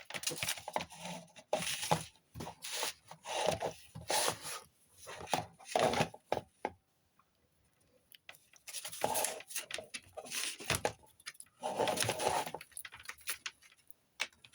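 Close handling noise: multimeter probes and a removed blade fuse rubbed, scraped and tapped together in irregular bursts, with a pause about halfway through.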